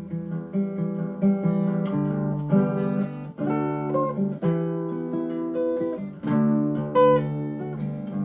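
Acoustic guitar in open G tuning playing an instrumental riff, a run of plucked notes left to ring into each other.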